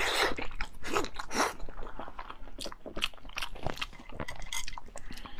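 Close-miked eating: a mouth biting and chewing food with irregular crunching and wet clicking sounds, busiest in the first second and a half.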